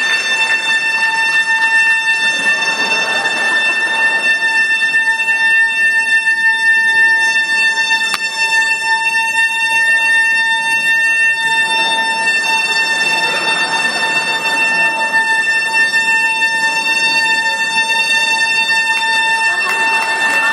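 Soprano saxophone holding one high note steadily without a break.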